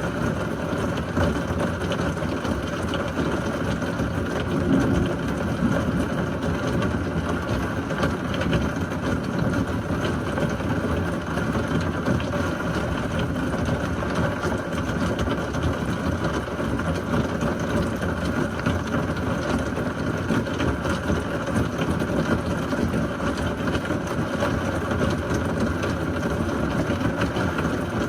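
Steady heavy rain of a severe thunderstorm, an even rushing wash with no clear thunderclap.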